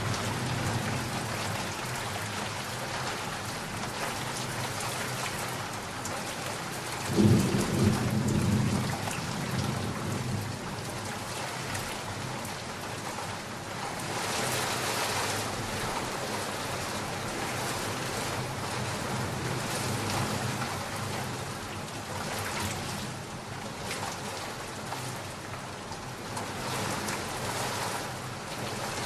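Steady heavy rain falling, with a sudden loud thunderclap about seven seconds in that rumbles on for a few seconds before fading back into the rain.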